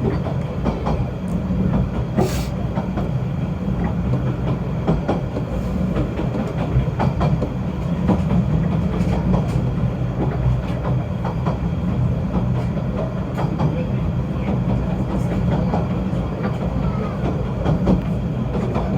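Snowdon Mountain Railway rack-railway train running, a steady low rumble with frequent scattered clicks and knocks from the wheels and track.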